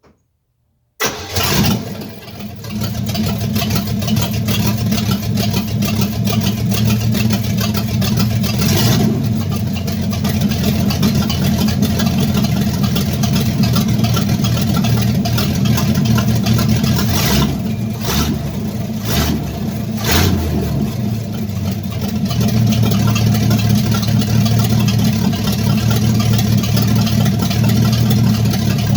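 Chevrolet C10 pickup's carbureted engine on its first start, catching about a second in and then running steadily. Its pitch rises briefly a few times between about 9 and 20 seconds in.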